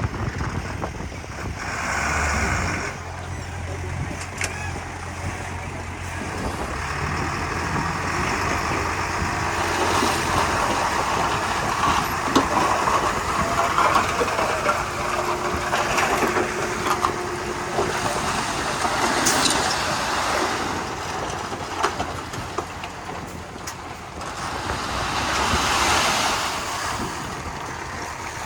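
Komatsu D31P crawler bulldozer's diesel engine running under load while it pushes soil and mud. The machine noise swells louder several times, around two seconds in, through the middle, and near the end.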